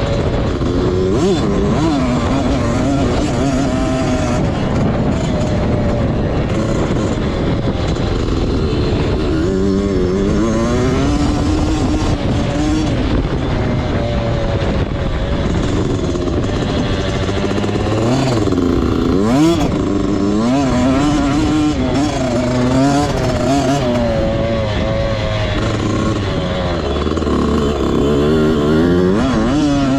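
Motocross bike engine revving up and down again and again as the throttle is worked round the track, its pitch climbing and dropping every second or two over a steady rushing noise.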